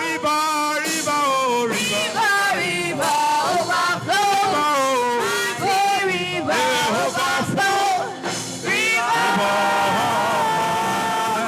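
A man singing a gospel worship song in a melismatic style, his voice sliding through quick up-and-down runs, then holding one long note for the last couple of seconds.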